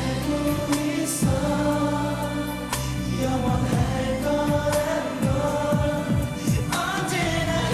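Live K-pop boy band performance: several male voices singing together over a backing track with a steady beat.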